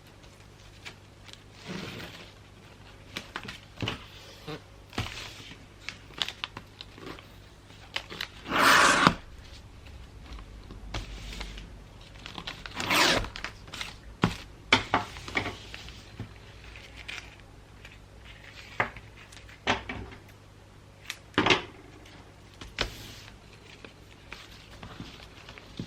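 Gift-wrapping handling sounds: wrapping paper rustling and crinkling with light taps and thunks, and two louder rasping bursts of about a second, one about a third of the way in and one midway.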